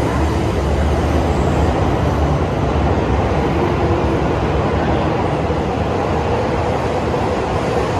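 Tohoku Shinkansen E5- and E6-series coupled train pulling out of the station, its cars passing close by with a steady rumble of wheels on rail and a faint hum over it.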